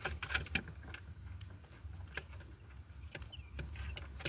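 Faint scattered clicks and crackles of a quail egg's shell and membrane being picked at during an assisted hatch, over a low steady hum, with a faint high peep about three seconds in.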